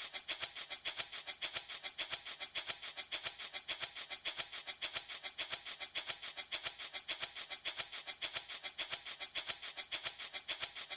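Handmade baby rattle shaken steadily in an even, quick rhythm of about five shakes a second, a bright, hissy rattling of small loose beads.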